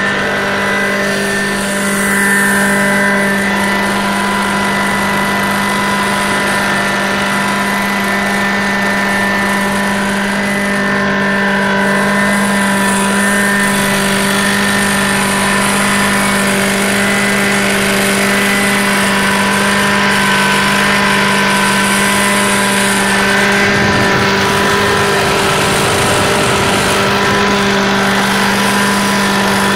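Prochem Legend SE truck-mount carpet cleaning machine running, its Kohler 22 hp engine holding a steady drone at constant speed.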